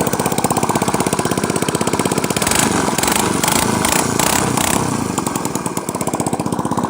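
Suzuki Address V50 scooter's four-stroke 50cc single-cylinder engine running with no muffler fitted, giving a loud, rapid open-exhaust popping. The revs rise for a couple of seconds in the middle, then drop back to idle. The scooter is listed as having an abnormal engine noise.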